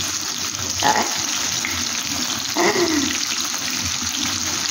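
Egg yolks and tomato slices frying in hot oil in a pan: a steady sizzle.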